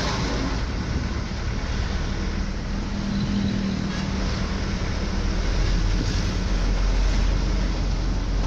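Road traffic noise with vehicle engines running steadily; a low engine hum grows stronger about five seconds in.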